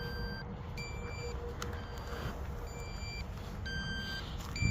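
RC transmitter's low-battery alarm beeping: short electronic beeps about once a second, alternating in pitch, warning that its batteries are running down. Low wind rumble on the microphone underneath.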